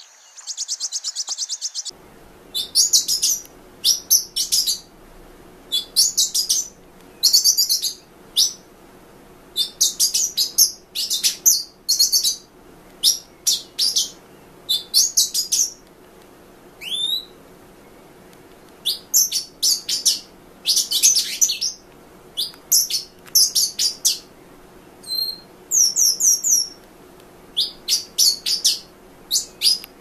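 Pin-tailed whydah singing: bursts of high, squeaky chirps and twitters, a second or so apart, over a steady low hum. The first two seconds hold a dense, buzzy rapid trill.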